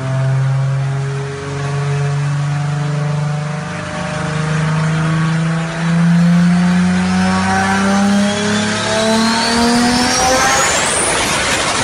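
Turbocharged MK4 Toyota Supra engine revving, its pitch climbing steadily and slowly for about eleven seconds, with a thin high whistle rising in pitch through the second half.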